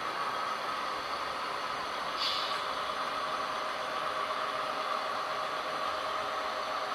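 HO scale model diesel locomotive running, its sound decoder playing a steady diesel engine drone, with a short hiss about two seconds in.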